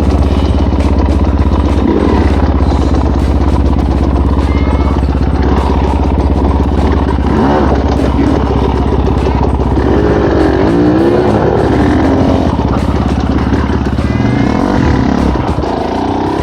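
Off-road dirt bike engine running at low revs, steady at first, then the revs rising and falling repeatedly in the second half as the throttle is worked on and off.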